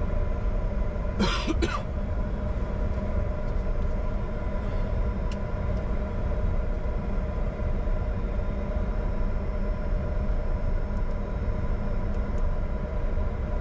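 Steady cockpit noise of a taxiing Bombardier Challenger 605: the low rumble of its two GE CF34 turbofans at idle, with several steady hum tones over it. A short throat-clearing sound about a second in.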